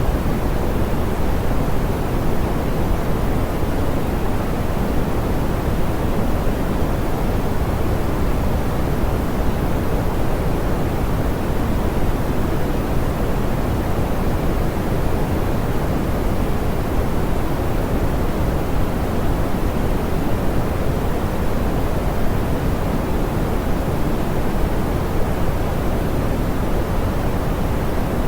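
Steady, smoothed pink noise: an even, unchanging hiss weighted toward the low end, with its top end softened.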